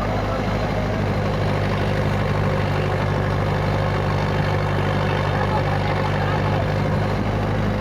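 Tractor's diesel engine idling steadily as it warms up.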